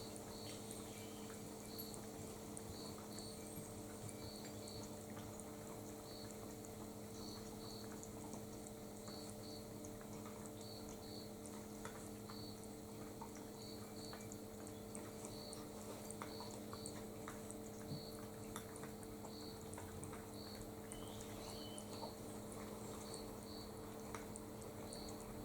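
Small bird chirping: short high chirps, often in pairs, repeating every second or so over a steady low electrical hum, with faint scattered ticks.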